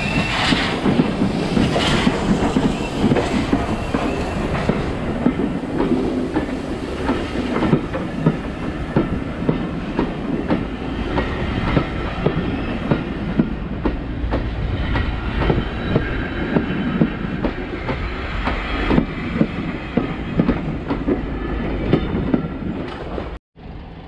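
Train running on a heritage railway line, a steady rumble with wheels clicking over the rail joints. The sound breaks off abruptly near the end.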